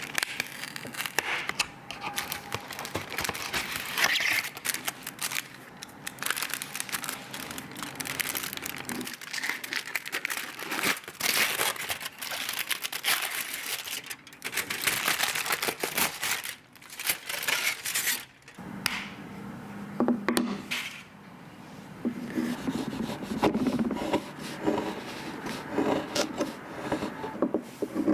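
Close-up handling noises: rustling, crinkling and scraping, with many small clicks and knocks.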